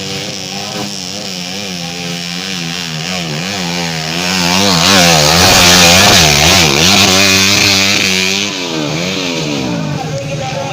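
Trail-bike engine revving hard and unevenly, its pitch swinging up and down as the throttle is blipped on a steep dirt climb. It grows louder and harsher about four seconds in, then eases back near the end.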